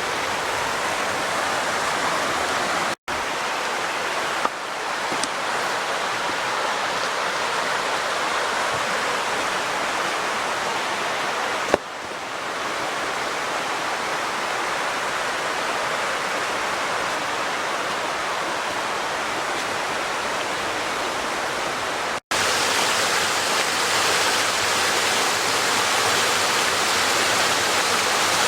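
Rushing water of a rocky creek's small waterfalls and rapids, a steady, even rush. It is broken twice by a split-second dropout, about three seconds in and again near the end, and runs a little louder after the second.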